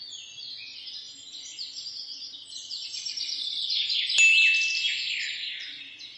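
A chorus of birds chattering in many quick, high chirps, swelling to a peak past the middle and then fading away. A single sharp click sounds about four seconds in.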